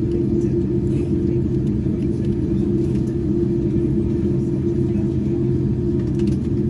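Steady low rumble and hum inside a Boeing 787-9 cabin on the ground after landing, from the idling GEnx engines and the cabin air system. The sound holds level throughout.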